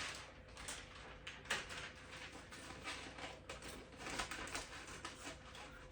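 Faint scattered rustling and light taps of small things being handled, over a faint steady hum.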